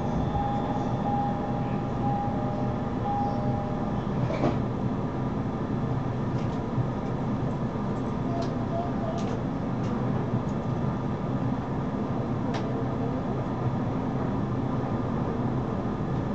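Inside a JR commuter train carriage standing at a station: a steady low hum from the train's equipment. In the first four seconds a short tone beeps repeatedly, then a single knock comes about four and a half seconds in. The train begins to pull away near the end.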